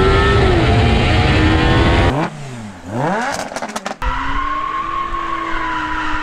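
Car engines in a run of short cut-together clips. A loud engine holds at high revs, then after a cut about two seconds in the revs drop and climb back. About four seconds in, another cut brings a steady engine note at constant revs, heard from inside the car.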